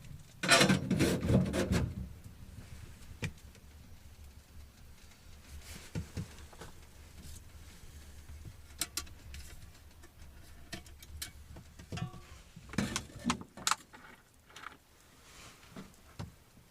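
Handling noises: a burst of rustling and scraping about half a second in, then scattered clicks and light knocks of objects being moved and set down, with a few more rustles near the end.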